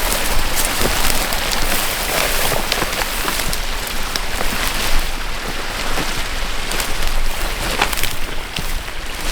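Continuous rustling and crunching with many small irregular clicks and crackles, from hiking down a steep slope under a heavy pack, over a steady low rumble of wind on the microphone.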